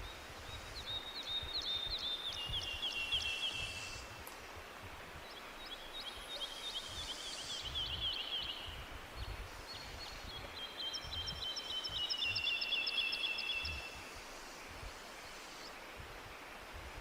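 A songbird singing three trilled phrases, each a fast run of repeated notes that steps down in pitch, with short pauses between them, over a steady hiss of forest background noise.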